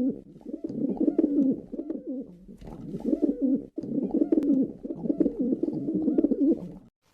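Pigeons cooing: a steady run of low, warbling coos, broken off briefly about halfway through.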